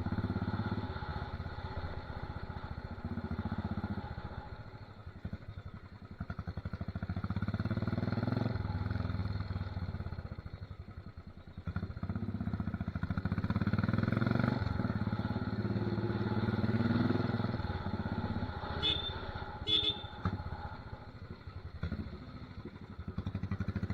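Royal Enfield Desert Storm's single-cylinder engine running loud through an aftermarket torpedo/megaphone silencer as the bike is ridden. The exhaust note rises and falls with the throttle and is loudest past the middle.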